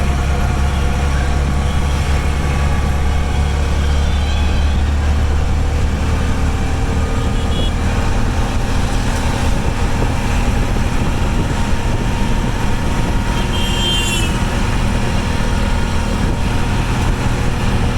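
Passenger train running with a steady, loud rumble.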